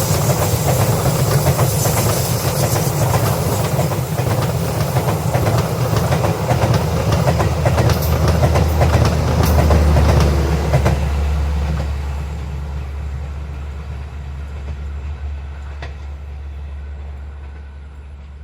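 Passenger train passing close by, its wheels clattering over the rail joints and a deep rumble underneath; the sound begins fading away about eleven seconds in as the train recedes.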